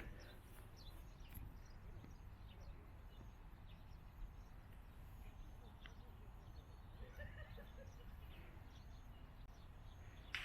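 Quiet outdoor ambience with a steady low rumble and faint, repeated bird chirps, plus a few soft scattered ticks.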